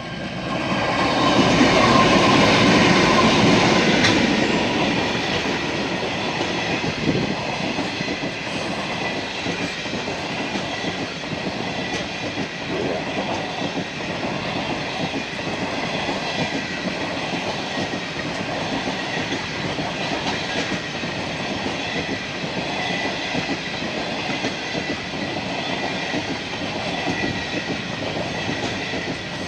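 The Ghan passenger train passing close by. It is loudest in the first few seconds, then its carriages run past with a steady rumble and a regular clickety-clack of wheels over the rail joints.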